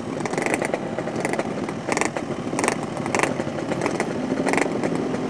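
Yamaha RX-King's two-stroke single-cylinder engine running through an aftermarket 'setengah dewa' expansion-chamber exhaust, crackling at idle with the throttle blipped several times to clear carbon out of the exhaust.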